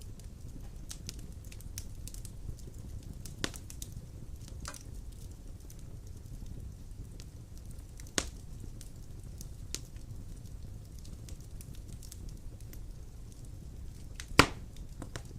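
Large wood logs burning in a fireplace: a steady low rumble of flames with scattered small crackles and three sharp pops, the loudest near the end.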